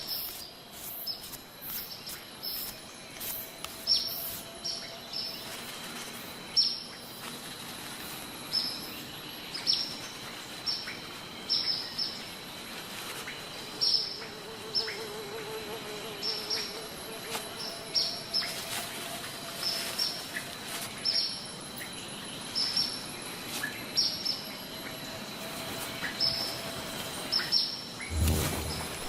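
Bird giving repeated short, high chip calls, about one to two a second, over a steady high-pitched insect drone and forest ambience.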